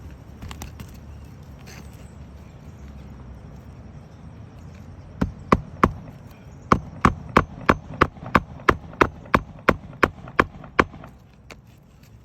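Hammer striking about three times a second on a shingled roof, a run of some sixteen sharp blows that begins about five seconds in, pauses briefly and stops near the end. It comes during a shingle repair with a nail-ripping snake tool.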